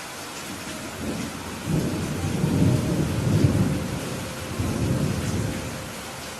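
Steady rain hiss with a low, rolling thunder rumble that builds about a second in, peaks in the middle, swells once more and fades near the end.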